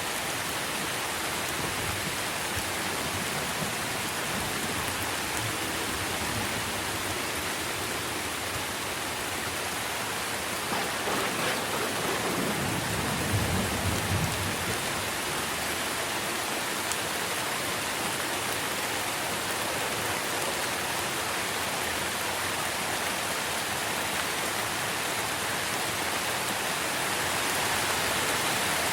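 Steady rain falling on trees, an even hiss of drops on leaves. About halfway through, a low thunder rumble swells for a few seconds and fades.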